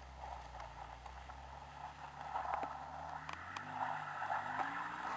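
Distant car engine revving hard while its tyres spin on an icy, muddy slope, the revs climbing in steps from about halfway through: the car is failing to get up the driveway.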